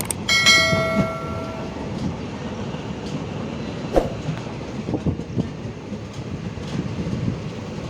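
Train running on the track with a steady rumble and scattered knocks of the wheels over rail joints. A single train horn blast starts about half a second in and lasts just over a second.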